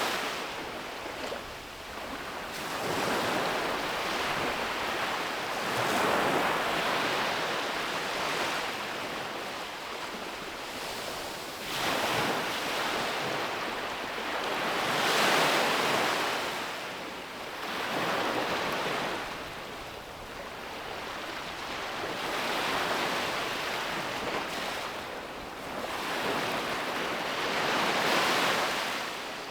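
Sea waves breaking and washing up a beach, each surge of surf swelling and fading every few seconds.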